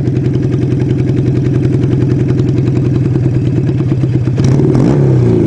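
Kawasaki 440 motorcycle's parallel-twin engine idling at a standstill, a steady even rumble. About four seconds in it grows louder, with a shifting pitch.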